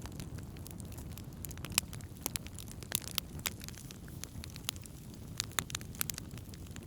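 Wood campfire crackling: sharp, irregular pops and snaps, several a second, over a low steady rumble.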